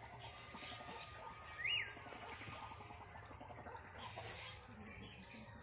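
A single short bird call, a whistle that rises and falls, about a second and a half in, over a faint outdoor background hum.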